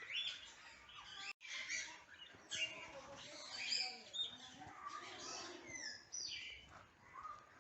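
Many aviary birds chirping and calling at once: short high chirps overlapping with some quick falling calls.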